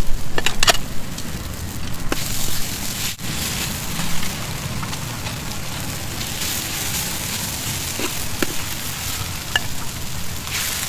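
Lort cha short rice noodles frying in a large wok, with a steady sizzling hiss. A few sharp clicks sound in the first second.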